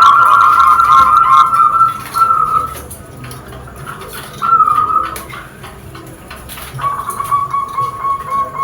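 Zebra dove (perkutut) cooing: a steady, trilling call that comes three times, a long phrase at the start, a short one around the middle and another long one late on.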